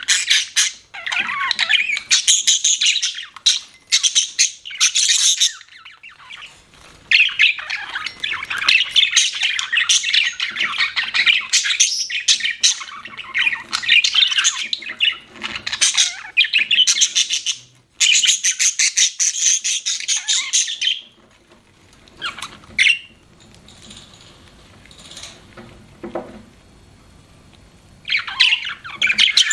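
Budgerigar chattering and chirping in quick runs of high calls, with a quieter stretch of a few faint calls about two-thirds through before the chatter starts again near the end.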